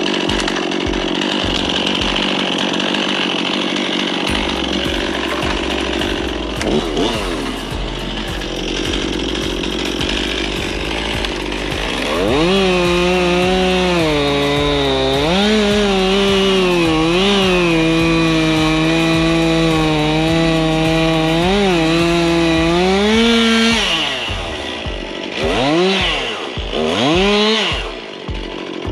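Chainsaw running at high revs while cutting firewood, its pitch dipping and recovering repeatedly, then revved up and down in quick blips near the end.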